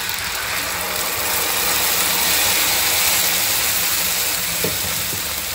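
Cooked beans in their broth poured into hot oil and browned onion in a frying pan, sizzling loudly as the liquid hits the oil; the hiss swells toward the middle and eases a little near the end.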